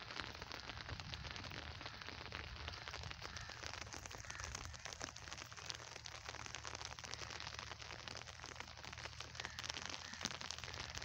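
Steady rain pattering, a dense crackle of small drops, with a low rumble underneath.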